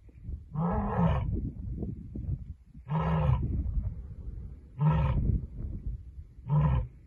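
Lioness roaring: four deep, grunting roars spaced about two seconds apart, each one shorter than the one before, with a low rumble between them.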